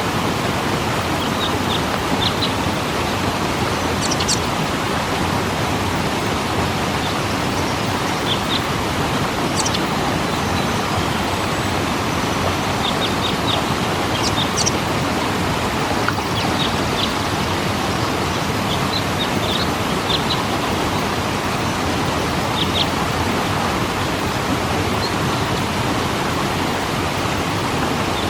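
Steady rushing of a waterfall, with short high bird chirps every few seconds.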